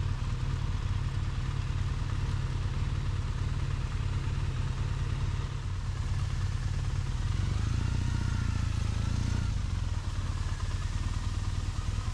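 Triumph motorcycle engine running steadily under way, a constant low drone.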